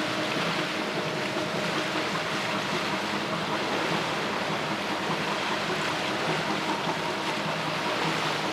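Steady drone of a large ferry's machinery heard across the water, a few held tones over an even rushing noise.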